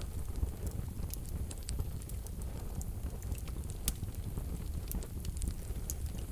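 Wood fire burning in a fireplace stove: a low steady rumble of flames with irregular small crackles and pops from the burning logs.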